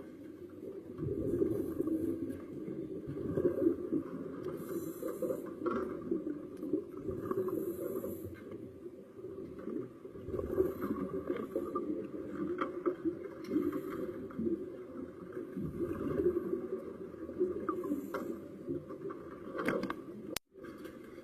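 Muffled underwater noise picked up through a camera's housing, a dull rumbling wash with short hissing bursts every few seconds. The sound cuts out briefly near the end.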